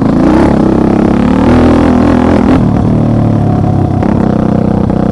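Off-road vehicle engine running loud and close, revving up in the first moment and then holding at varying speed.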